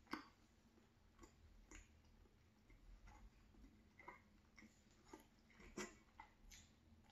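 Faint chewing of toast with strawberry jam: soft, scattered wet mouth clicks, with one sharper click near the end.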